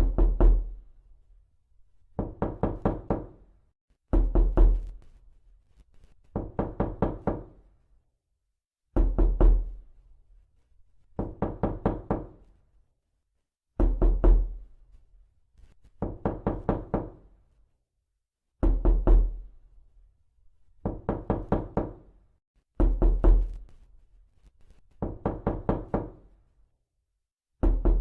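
Repeated knocking in quick bursts of about four or five knocks, one burst every two seconds or so, each knock with a deep thud.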